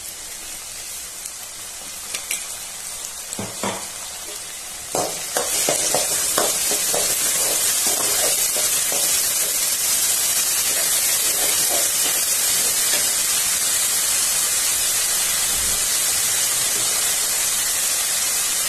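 Chopped onions and ginger-garlic paste frying in oil in a kadai, stirred with a steel spoon that clicks and scrapes against the pan. About five seconds in the sizzle jumps louder and then stays steady.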